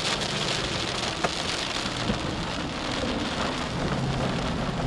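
Heavy rain pelting the storm-chase vehicle: a steady hiss of rain over a low, steady hum, with one sharp tick about a second in.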